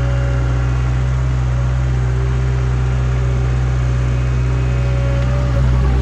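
Toyota SDK7 skid steer's engine running steadily, stepping up slightly in level about five and a half seconds in.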